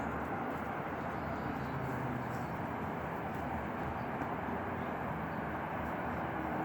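Steady outdoor background rumble and hiss, like distant traffic, with no distinct events.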